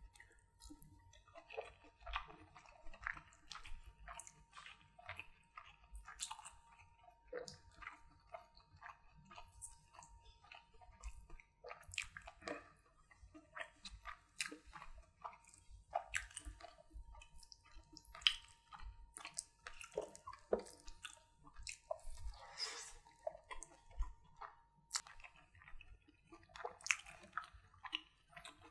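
Close-miked mouth sounds of eating butter chicken and rice by hand: irregular wet chewing, biting and smacking, some crisper crunches, and squelches of curry-soaked rice being squeezed in the fingers. A faint steady tone sits underneath.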